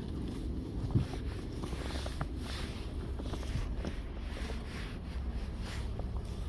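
Snow brush sweeping snow off a car: soft, irregular brushing strokes, with a single knock about a second in.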